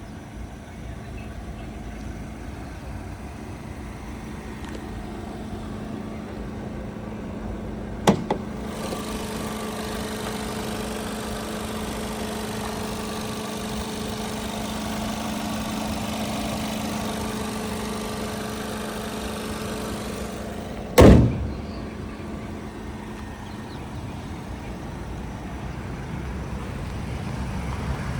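A car door on a 2015 Volkswagen Jetta shuts about eight seconds in and again about twenty-one seconds in. A steady low hum runs between the two shuts, over a constant background noise.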